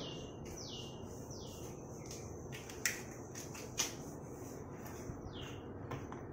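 A bird repeating a short whistled note that drops in pitch, about two notes a second at first, then again near the end. Two sharp clicks about three and four seconds in.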